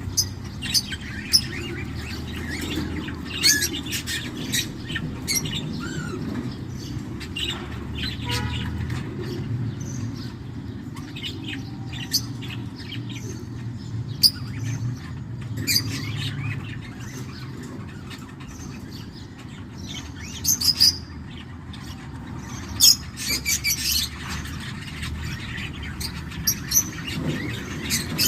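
Birds chirping: many short, high chirps, some coming in quick clusters, over a steady low hum.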